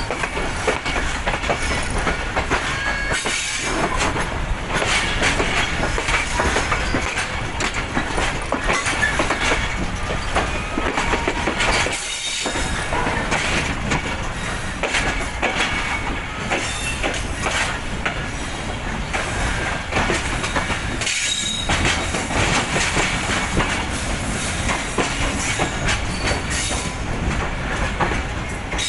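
Passenger train coaches rolling past, the wheels clattering steadily over rail joints and squealing now and then as the train arrives at a station.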